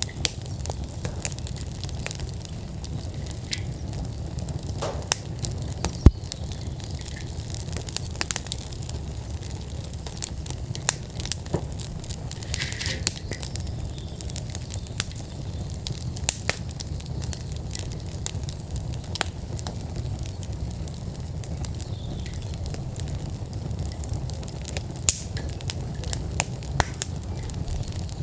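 Wood fire burning in an outdoor fire pit: a steady low rumble of flames with frequent sharp crackles and pops, one louder pop about six seconds in.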